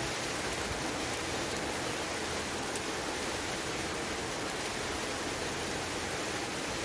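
Steady, even hiss of water in a rainforest, the continuous wash of falling or running water, with a few faint ticks.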